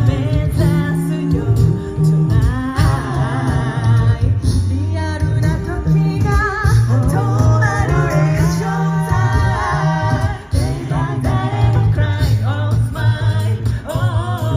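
A cappella group singing in harmony, with a deep sung bass line underneath and rhythmic vocal percussion.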